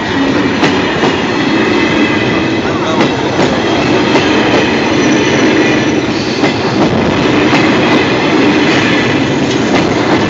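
Passenger coaches of an express train rolling past close by. The steel wheels clatter over the rail joints, with scattered sharp clicks over a steady rumble.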